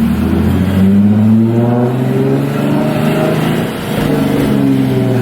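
A car engine revving under load, its pitch climbing for about three seconds, dropping about four seconds in, then climbing again.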